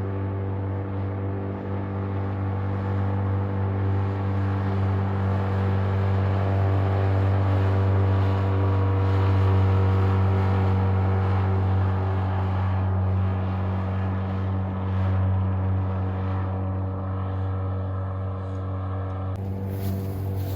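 Boat outboard motor running steadily at cruising speed, a constant low engine drone with a little wind and water noise on top. The sound changes abruptly near the end, with more high hiss coming in.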